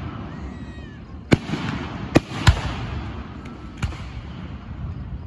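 Aerial fireworks display: shells bursting with four sharp bangs, two of them close together a little after two seconds in. A continuous crackling hiss and low rumble runs between the bangs.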